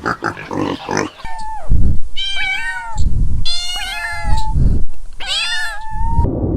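A domestic cat meowing four times, each call about half a second to a second long, after the last of a pig's grunts in the first second.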